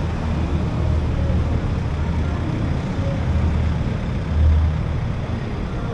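Steady low rumble of motorcycle engines running, swelling briefly about four and a half seconds in.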